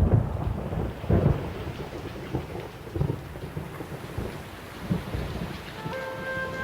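Thunderstorm: steady heavy rain with several low rumbles of thunder, the loudest right at the start and again about a second in.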